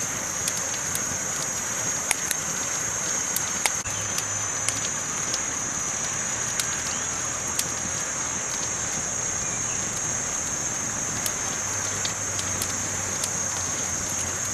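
Campfire burning, with sharp irregular crackles and pops over a steady hiss.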